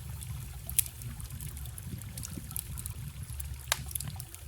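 Wood fire crackling, with sharp pops, two of them loud, over the steady low rush of a forest stream.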